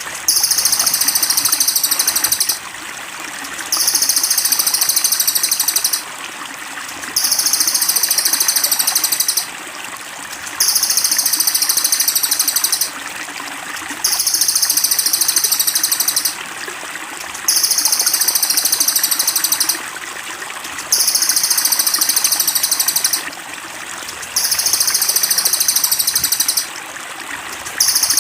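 A songbird's high, rapid trill, each lasting about two and a half seconds and repeating at a very even pace about every three and a half seconds, over steadily trickling water.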